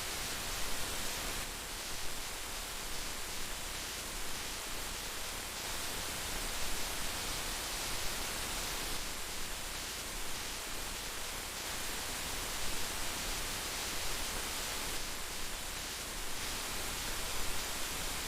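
Heavy rain falling steadily, an even hiss of dense drops with small irregular swells in loudness.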